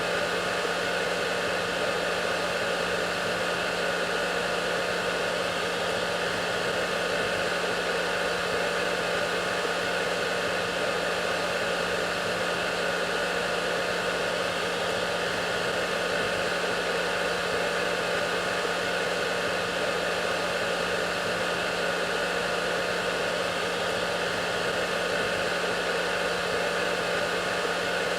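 Hair dryer running steadily: an even rush of air over a constant motor hum with a few steady whining tones.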